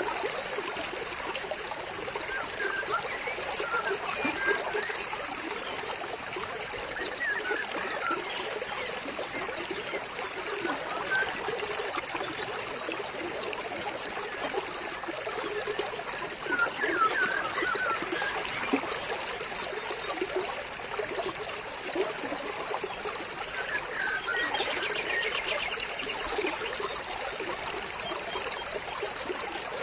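Water trickling and flowing steadily in a stream, with birds chirping now and then over it and a quick bird trill about 24 seconds in.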